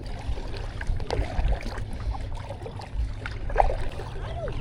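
Kayak on open water: water splashing and lapping against the hull with scattered small drips and ticks over a low, uneven rumble. A short up-and-down bird call comes near the end.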